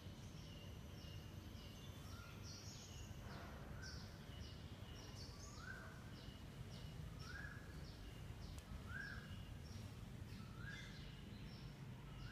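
Faint, repeated bird calls: short rising chirps about once a second, with quicker higher chirps between them, over a low steady hum of room noise.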